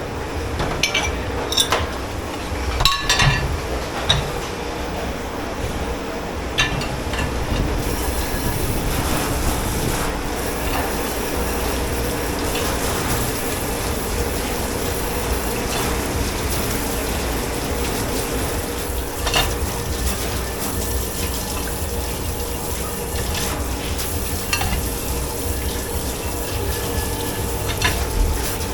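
Dishes clinking in a commercial dish-pit sink, then water starts running from a tap about eight seconds in and keeps running as a steady rush, with a few more clinks of crockery. A steady hum sits underneath.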